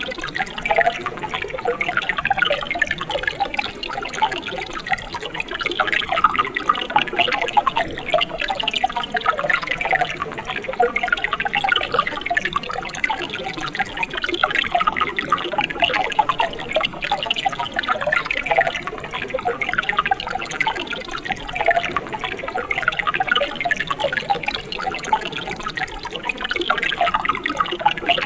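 A mountain stream running steadily: a continuous babble of small splashes and trickles with no pauses.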